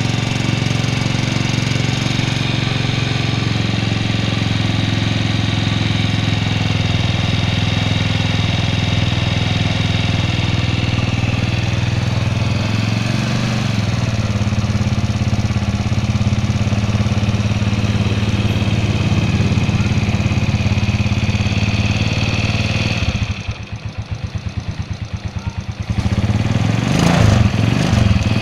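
Single-cylinder four-stroke engine of a 2004 Suzuki Shogun 125R running steadily. About three-quarters of the way through it drops to a quieter, fast-pulsing note for a few seconds, then comes back louder with the pitch rising and falling unevenly near the end.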